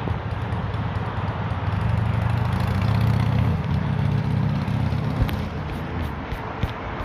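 A low engine rumble that swells to its loudest a few seconds in and then eases off as it passes, the kind of passing noise the speaker calls noise pollution.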